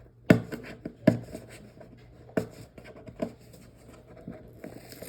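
Hands handling and picking at a taped cardboard box, making scattered sharp taps and knocks with light scraping between them.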